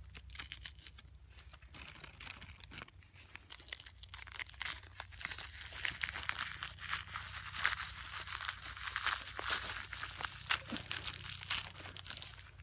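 Dry forest litter rustling and crackling: many small crunches and crinkles in an uneven flurry, busier from about four seconds in.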